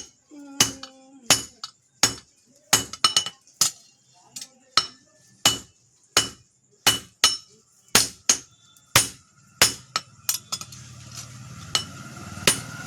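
Hammer blows ringing on hot steel over an anvil, struck at an uneven pace of about two a second, as a bicycle pedal crank is forged into a knife blade. A low steady hum comes in near the end.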